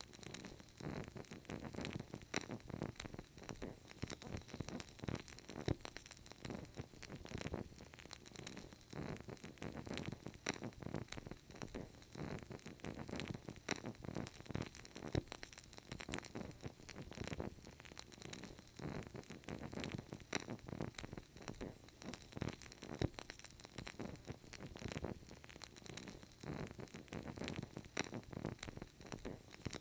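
Burning candle crackling softly: a dense, irregular run of tiny pops and ticks over a faint steady hiss.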